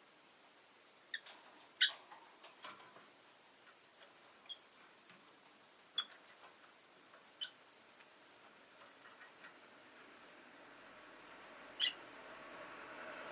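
Rosy-faced lovebirds giving sparse, short, sharp chirps, about seven scattered through the stretch, the loudest about two seconds in. From about ten seconds in, the rising noise of a passing road vehicle swells under them.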